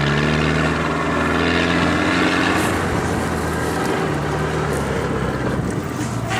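A vehicle engine running and revving, its pitch rising over the first couple of seconds and then holding steady.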